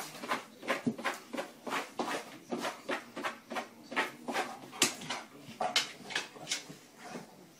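A golden retriever pawing and scratching at a rubber-backed doormat on a wooden floor, its claws scraping and scrabbling in quick, irregular strokes, several a second.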